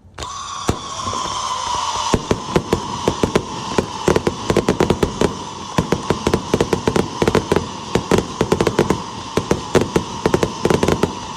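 Fireworks going off: a whistling note with overtones starts suddenly and slides slightly down in pitch. From about two seconds in, a dense run of sharp crackling pops joins it, many a second, while the whistle carries on.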